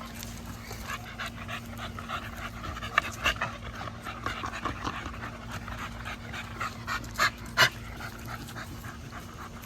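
American bully dogs panting in quick breathy strokes over a steady low hum, with a few sharper, louder noises about three seconds in and again near the end.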